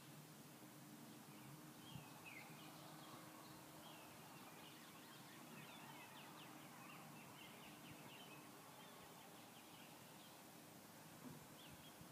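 Near silence with faint birdsong: clusters of short chirps and calls over a low background hiss.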